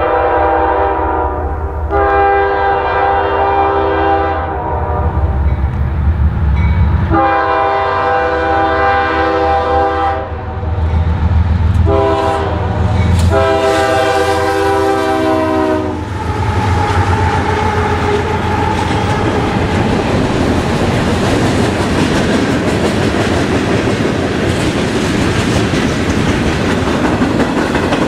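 An approaching diesel freight train sounds its multi-note horn in a series of blasts: long ones, then a short one and a final long one that ends about halfway through. All the while, the low rumble of the locomotives grows, and in the second half the freight cars roll past close by with steady wheel and rail clatter.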